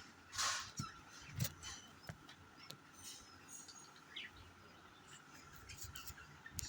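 Pet budgerigars giving short, scattered chirps, one louder about half a second in, with sharp light clicks between them.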